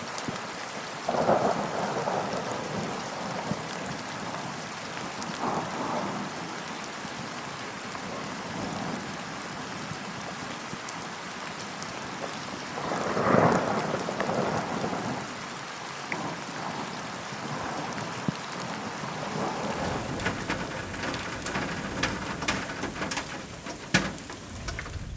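Steady rain falling, with several rolls of thunder; the loudest comes about halfway through. Over the last few seconds, close drops land in many sharp ticks.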